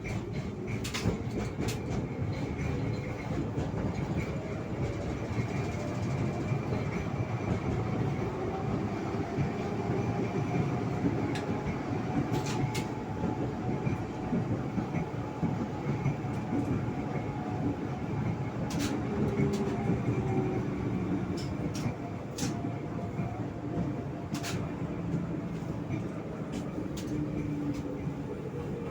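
Tram running between stops, heard from inside the car. Its traction-motor whine rises in pitch as it accelerates over the first ten seconds or so, holds, then falls away as it slows, with sharp clicks and knocks from the wheels over the rails.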